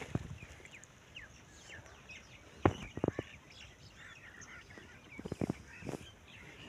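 Birds chirping in many short, quick calls, with a few sharp knocks: a loud one under three seconds in, followed by a couple more, and another cluster a little past five seconds.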